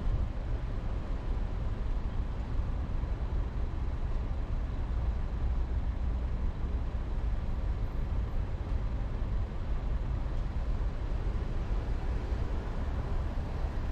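Steady low rumble of a car driving: engine and road noise with no distinct events.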